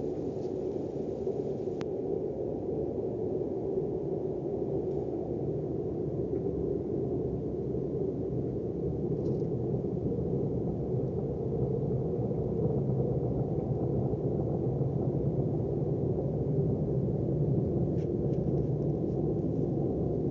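Steady low roaring drone of unknown origin, unbroken and growing slightly louder toward the end.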